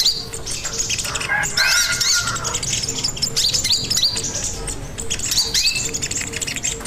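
Sogon bird (a sunbird) singing loudly: rapid, repeated high chirps and twittering, with a lower warbling phrase about a second in.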